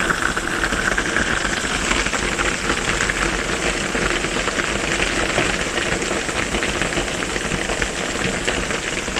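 Heavy rain drumming on a metal roof: a steady, dense patter.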